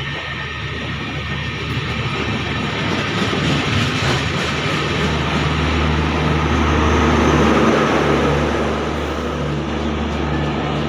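Indian Railways electric-hauled train running past: a steady rumble and rail noise with a low hum, swelling to its loudest about two-thirds of the way through and then easing a little.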